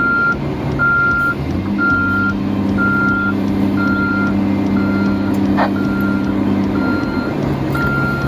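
Heavy vehicle's reversing alarm beeping steadily about once a second, over the vehicle's running engine.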